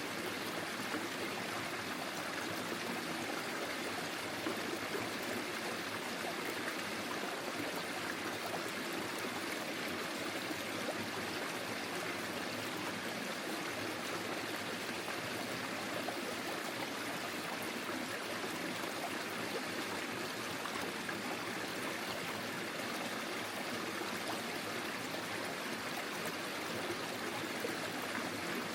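Forest stream flowing steadily over stones: a continuous even rush and trickle of running water.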